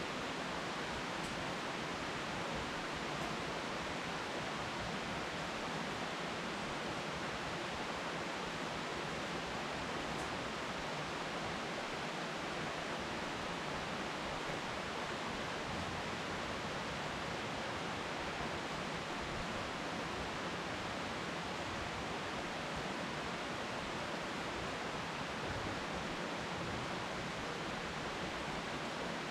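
Steady rain falling on leafy trees: a continuous even hiss with no thunder.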